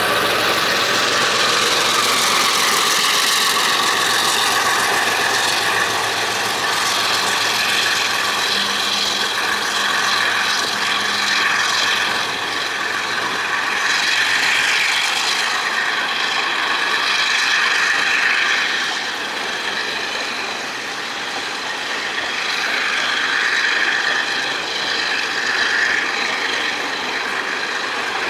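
Freight train wagons rolling past at low speed, with a continuous high-pitched wheel squeal that swells and fades over the rumble of the wheels.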